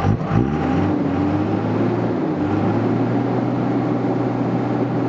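Dodge Ram pickup's engine revving up and then held at steady high revs in neutral, keeping the battery voltage up so the electric winch can pull the stuck truck.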